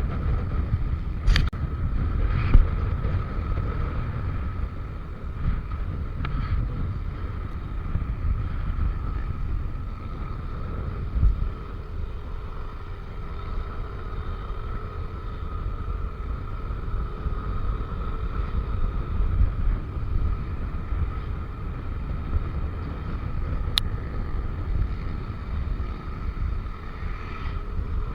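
Wind buffeting the microphone over the steady drone of a Yamaha NMAX V3 scooter riding along, with a constant whine running through it. A couple of brief sharp clicks stand out, one near the start and one late on.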